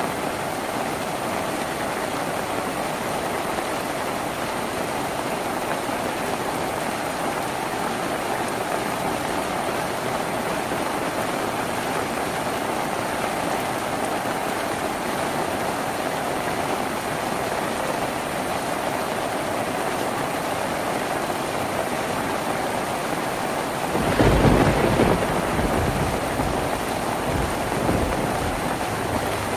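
Steady rain falling on a tin roof. About three-quarters of the way through, a low rumble of thunder rolls in and fades over a few seconds.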